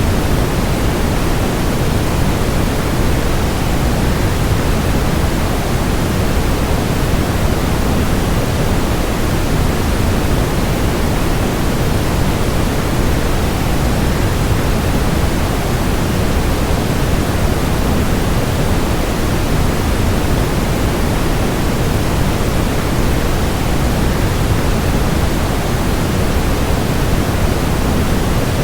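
Waterfall: a constant rush of falling water, heaviest in the low end, steady throughout.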